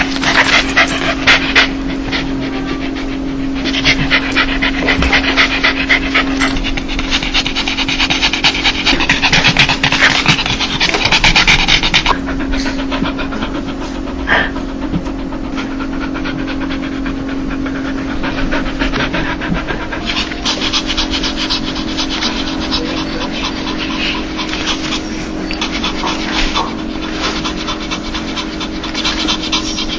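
A dog panting rapidly, a quick run of breathy huffs that is louder in the first half and softer later on; this is the happy, excited panting that the uploader presents as a dog's laugh. A steady low hum lies underneath.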